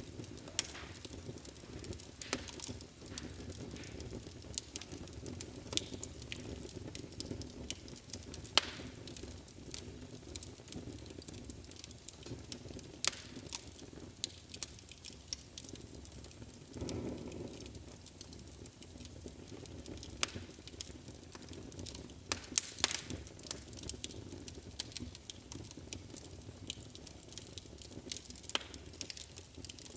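Wood fire in a fireplace crackling, with frequent sharp pops over a steady low rumble of flames; the rumble swells briefly about halfway through.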